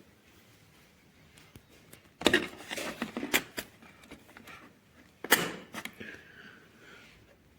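Hard plastic tool case and its tools being handled: two bursts of clattering knocks and clicks, about two seconds in and again about five seconds in.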